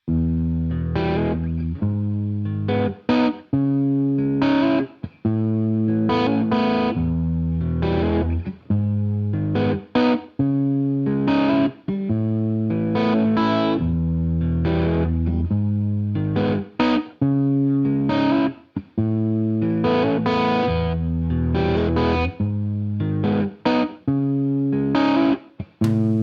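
Background music: distorted electric guitar playing held chords, cut off by short stops every second or two.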